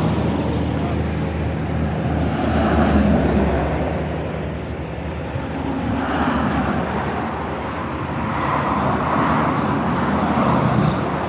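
Harley-Davidson Tri Glide trike on the move: its V-twin engine running steadily under loud wind rush on the microphone, the noise swelling and easing several times.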